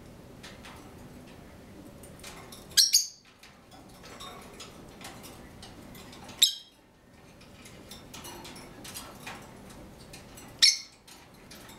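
Pet bird giving three short, loud, high-pitched calls about four seconds apart, with faint small clicks between them.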